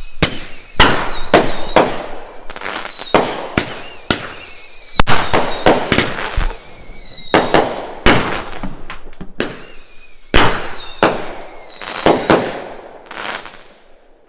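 200-gram whistling firework cake firing shot after shot: about twenty sharp cracks, with warbling whistles that waver and slowly fall in pitch, dying away near the end. The cake misfired, which the owner puts down to a bad firework.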